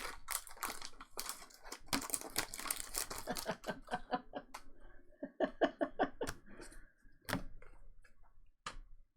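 Trading card packs being handled: foil wrappers crinkling and tearing for the first few seconds, then a run of sharp clicks and taps as the cards are flicked through and set down.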